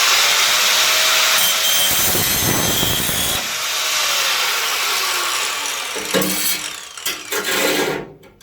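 Angle grinder with a cutting disc taking metal off the edge of a steel repair panel, running hard for about six seconds, then a few short bursts before it stops.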